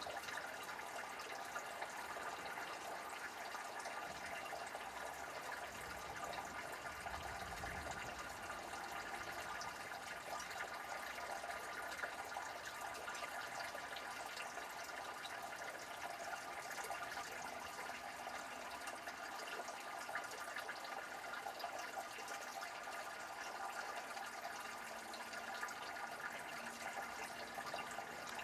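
Steady thunderstorm rain falling, an even hiss, with a faint low rumble about seven to eight seconds in.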